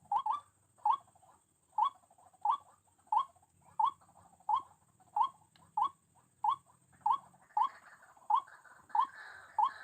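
White-breasted waterhen calling over and over, a short rising note about three times every two seconds. A noisy rustle joins the calls for the last couple of seconds.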